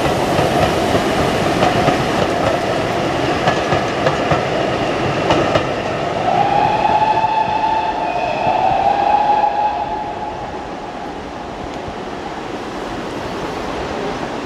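Steam-hauled passenger train's coaches rolling past with a clickety-clack. A drawn-out high tone sounds from about six to ten seconds in, and then a quieter rumble remains as the train draws away.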